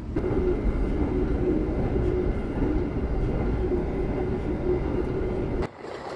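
Passenger train running along the line: a steady, dense rumble with a low hum underneath. The sound drops off suddenly shortly before the end.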